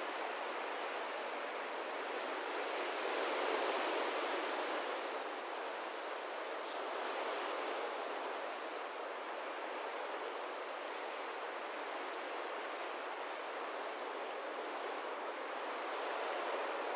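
Steady rushing hiss from a starling murmuration recording, the whoosh of the flock or wind, swelling a little about three seconds in, with a few faint ticks and no music.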